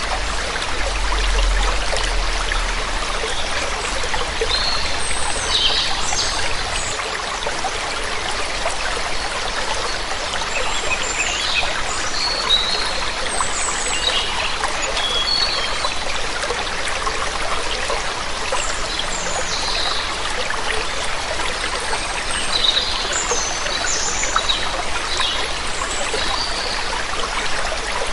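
Steady rush of running water from a waterfall, with short high bird chirps scattered throughout. A low rumble sits under it in the first few seconds.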